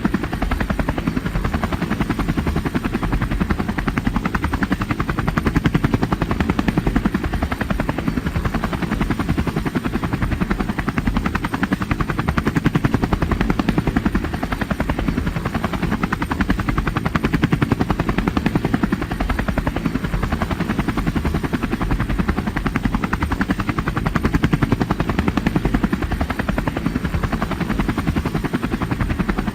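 Helicopter rotor running steadily, a fast even chop of blade beats that swells and eases every few seconds.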